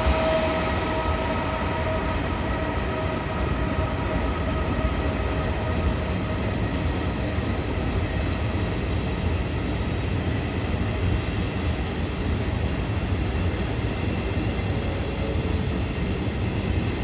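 Train moving through a railway station: a steady low rumble, with a whine that fades away over the first few seconds.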